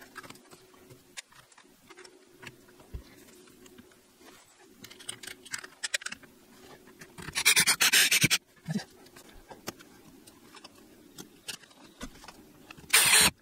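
Handling and fastening noises as a plastic drain pipe is strapped to a wooden joist with perforated metal hanger strap: scattered small clicks and scrapes, with a loud rasping burst about seven seconds in and another near the end.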